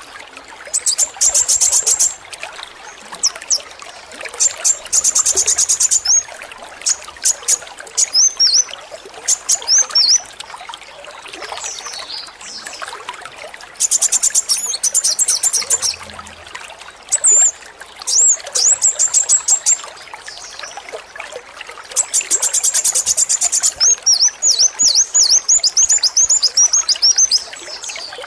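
Male kolibri wulung sunbird singing over steadily trickling water. Its song mixes several bursts of very fast, high, machine-gun-like trills, about two seconds each (the rapid song birdkeepers call 'AK-47'), with runs of short, sharp, bending high notes.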